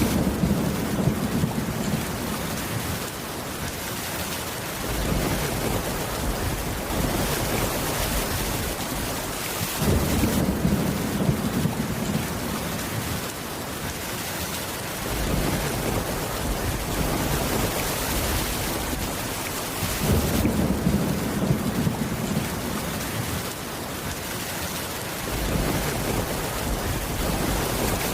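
Steady heavy rain with rolling thunder: low rumbles swell up three times, about ten seconds apart, under the constant hiss of the rain.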